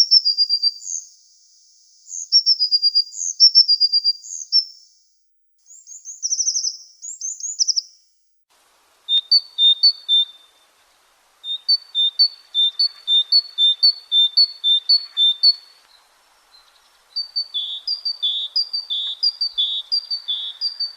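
A tit singing: high, quick repeated notes in bouts, with a short pause after about eight seconds, then a run of rhythmic two-note phrases repeated over and over.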